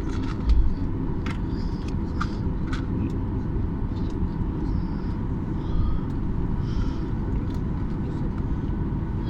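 Steady low rumble of an airliner's cabin as the plane taxis after landing, with a faint steady whine. A short low thump comes about half a second in.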